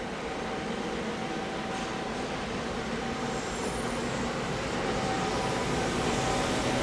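Freight train hauled by a JR Freight EF510 electric locomotive, running along the line and growing gradually louder.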